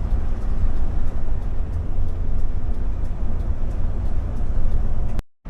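Steady low rumble of a vehicle's engine and road noise, with no distinct events; it cuts off suddenly near the end.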